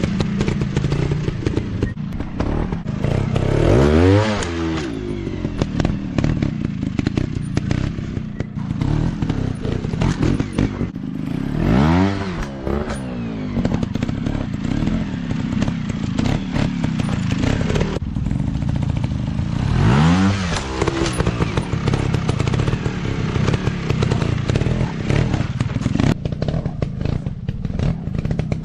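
Off-road motorcycle engines running steadily, with three sharp revs about eight seconds apart, each rising and then falling in pitch.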